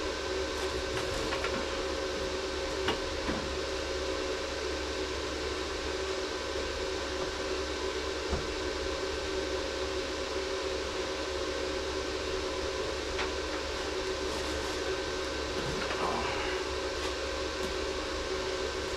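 Steady mechanical hum like a running fan, holding several constant tones, with a few faint light clicks.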